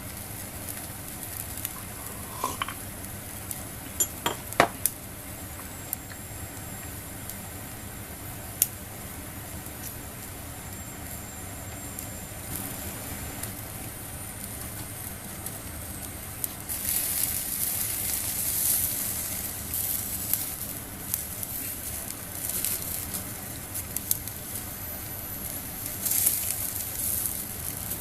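Food sizzling on a wire grill, the sizzle swelling and fading in waves from about two-thirds of the way in, with a few sharp clinks of utensils on metal in the first seconds.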